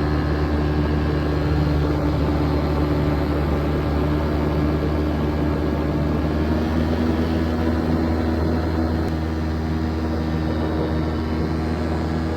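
Paramotor engine and propeller running with a steady drone, its pitch holding nearly constant.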